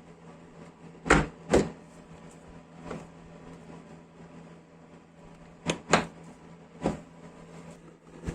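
A handful of short, sharp knocks and clicks at irregular intervals, the loudest a pair about a second in and another pair near six seconds in, over a faint steady hum.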